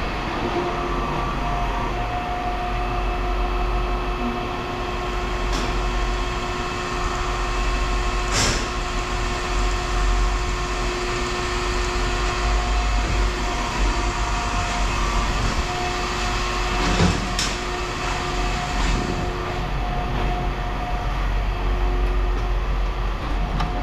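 Machinery running steadily, a drone with a held hum and a deep rumble, with a few short knocks about six, eight and seventeen seconds in.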